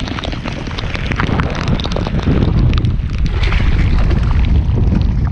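Wind buffeting a chest-mounted GoPro's microphone in a rainstorm, a loud, rough rumble with rain hiss and many scattered sharp ticks and splashes over it.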